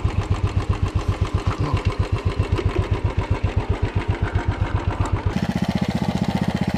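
Royal Enfield Classic's single-cylinder engine running at idle with an even, slow beat of firing pulses. About a second before the end the beat turns abruptly faster.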